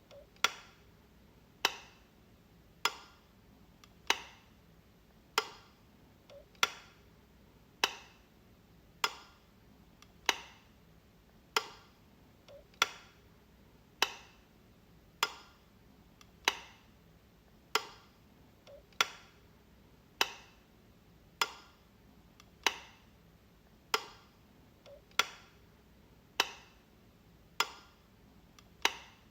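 Light switch flicked over and over, one sharp click about every 1.2 seconds, each with a short ringing tail.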